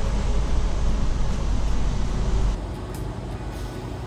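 Sydney suburban train running, a steady low rumble that drops abruptly to a quieter hum about two and a half seconds in.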